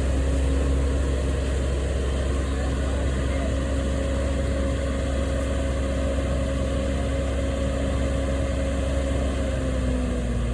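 An engine running steadily at a constant speed, its pitch easing down slightly near the end.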